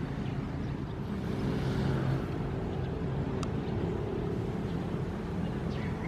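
Ocean surf rumbling steadily, a wave swelling and washing in about two seconds in.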